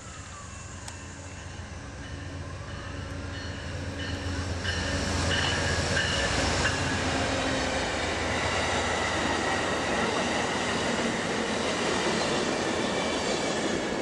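A train approaching and going by on the tracks. It grows louder over the first five seconds, then holds steady and loud, with thin high tones over the train noise.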